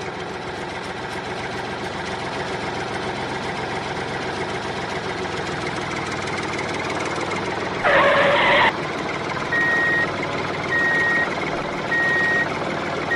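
Steady motor hum, cut about eight seconds in by a short, loud blast. From about nine and a half seconds a reversing alarm sounds: high single-pitch beeps, evenly spaced, a little over a second apart.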